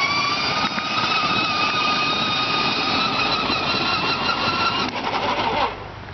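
A high engine-like motor whine rising slowly in pitch, then cutting off suddenly near the end.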